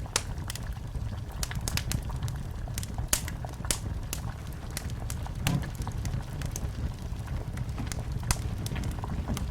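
Wood fire crackling in a fireplace: irregular sharp pops and snaps over a steady low rumble of the flames, with a slightly heavier pop about five and a half seconds in.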